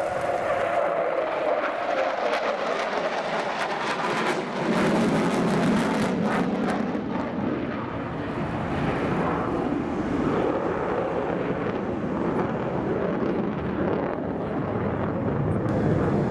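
F-15 fighter jet's twin turbofan engines heard in a pass, their pitch falling over the first few seconds as the jet goes by, then a steady loud jet rumble that swells about five seconds in.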